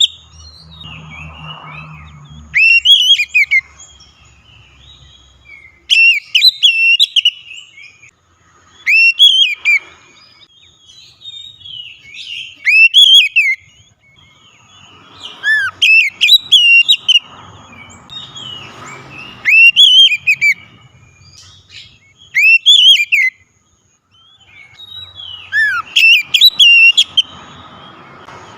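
Oriental magpie-robin (kacer) singing loud, whistled phrases that sweep up and down, delivered in bursts every three seconds or so, about eight in all.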